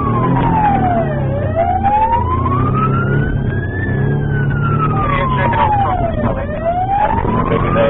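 Police car siren on a slow wail, its pitch sweeping down and up about every five seconds, over engine and road noise.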